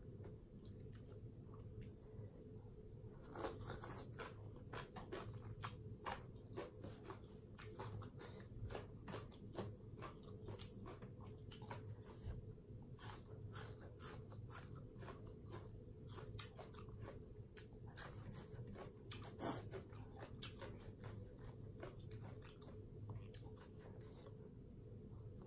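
Close-miked chewing and crunching of a mouthful of Thai papaya salad (shredded green papaya with rice noodles), eaten by hand: an irregular run of crisp crunches, a few of them louder, over a faint steady hum.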